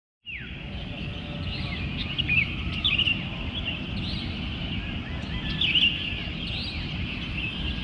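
Several birds chirping in short, repeated calls over a steady low rumble of outdoor background noise.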